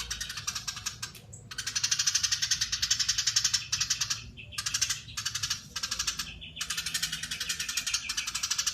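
Eurasian tree sparrow giving its long, dense chattering call: a very fast rattle of notes, broken by a few brief pauses.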